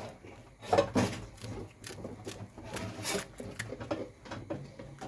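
A knife shredding cabbage: a run of irregular, crisp cutting strokes, several to a second.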